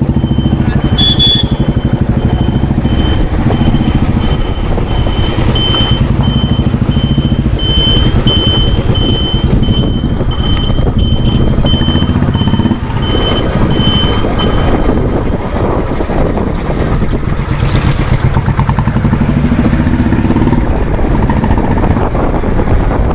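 Motorcycle engine running steadily while riding, with wind rush on the microphone. A short high-pitched beep repeats about twice a second and stops about two-thirds of the way through.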